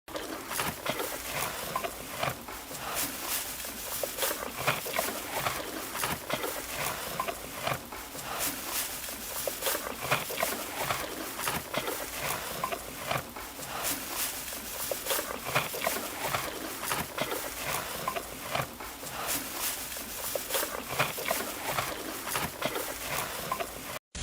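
Animal sounds: a dense, continuous run of many short, sharp calls or noises.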